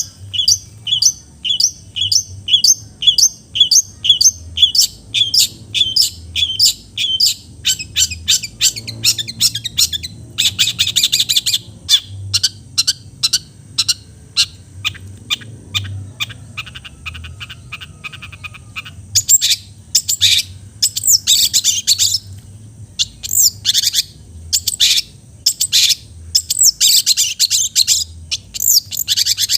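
Long-tailed shrike (cendet) singing loudly. First comes a run of sharp notes repeated about three times a second, then a dense rattling trill, then about two-thirds of the way in, bursts of harsh, fast, varied chattering calls.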